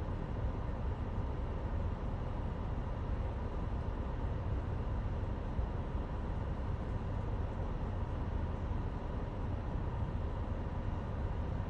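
Steady low engine rumble of vehicles idling in stopped traffic, with no sudden changes.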